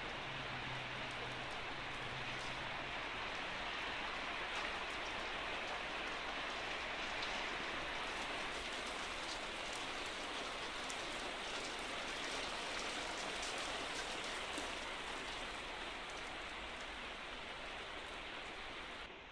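Steady rain falling, with scattered sharper drops ticking through it; a faint low hum sounds for the first few seconds.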